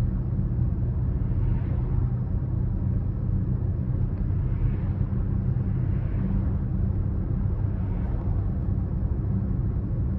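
BMW X5 30d's straight-six turbodiesel running at a steady cruise along with tyre and road noise, a constant low drone with faint swells of road roar every second or two.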